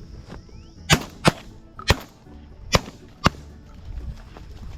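Shotguns firing at doves in a quick, uneven volley: five shots in about two and a half seconds, some louder and some more distant, from several guns.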